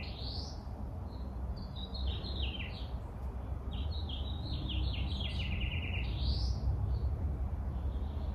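A small bird singing outside, repeating phrases of quick chirps that each end in a rising note, over a steady low rumble.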